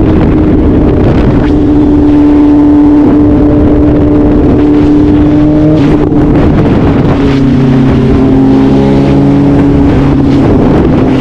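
BMW S1000RR's inline-four engine running at steady high revs at highway speed, under heavy wind noise on the microphone. Its pitch drops a little about six to seven seconds in and then holds steady.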